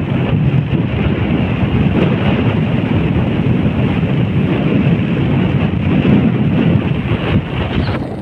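Steady wind rumble buffeting the microphone, as when riding a motorbike.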